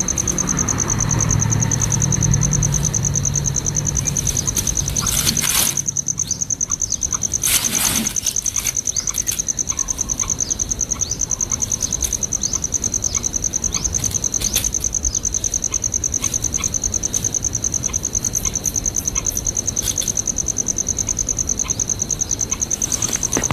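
A steady, high-pitched insect trill, of cricket or cicada type, runs unbroken, with many short falling chirps over it. A low hum fades out about five seconds in, and there are two brief rustling bursts around five and a half and seven and a half seconds in.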